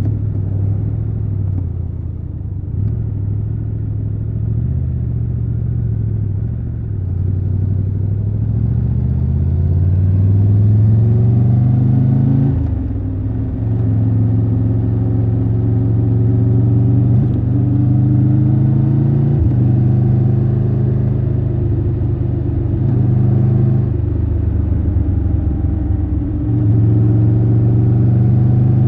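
Triumph Tiger 1200 Rally Pro's three-cylinder engine heard from the rider's seat while riding. The note rises steadily under acceleration, breaks briefly three times in quick shifts, holds steady, then drops lower for a couple of seconds before picking up again near the end.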